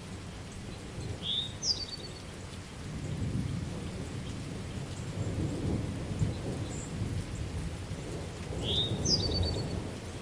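Steady rain with low rolling thunder rumbling under it, swelling about a third of the way in and again near the end. A bird gives a short rising chirp with a quick trill twice, once near the start and once near the end.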